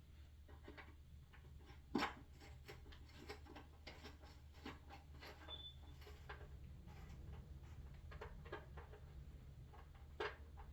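Faint hand-work noises of a water heater's access cover being refitted and screwed down: scattered light clicks and scrapes over a low steady hum, with sharper clicks about two seconds in and near the end, and a brief high squeak midway.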